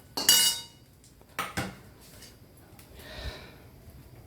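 Metal kitchen utensils clanking: a loud clatter with a short metallic ring just after the start, then a single sharp knock about a second and a half in.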